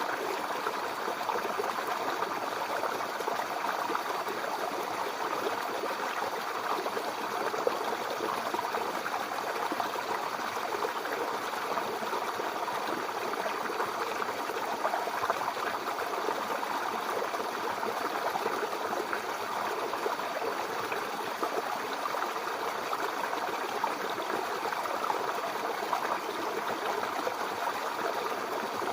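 Small brook babbling steadily over stones, a continuous even rush of trickling, gurgling water.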